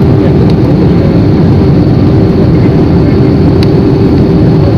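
Steady roar of aeroplane cabin noise in flight: engines and rushing air heard from inside the cabin, deep and unbroken, with a steady hum running through it.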